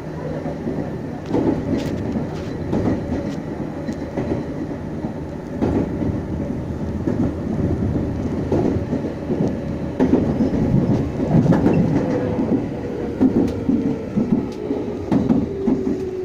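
Meitetsu 6500 series electric train running, heard from inside the car: a steady wheel-and-track rumble with scattered rail-joint clicks. Over the last few seconds a whine falls in pitch.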